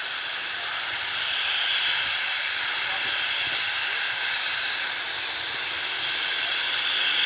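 Steam locomotive hissing: a steady high hiss of escaping steam that swells and eases a few times.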